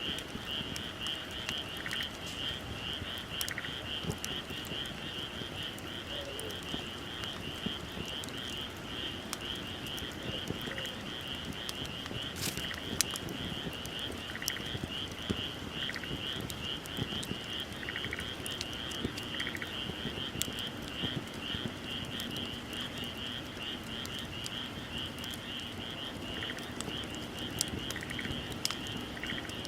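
Outdoor wood fire crackling with scattered sharp pops. Behind it runs a continuous high, rapidly pulsing chorus of calling night animals, with a softer call repeating every couple of seconds.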